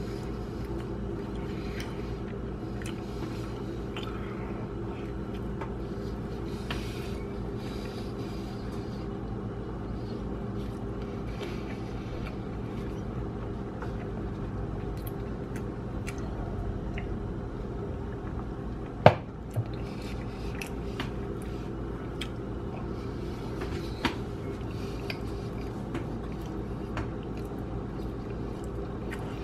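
Close-miked chewing of a soft bread sandwich: quiet wet squishing mouth sounds and scattered small clicks, with one sharp louder click about two-thirds of the way through, over a steady low hum.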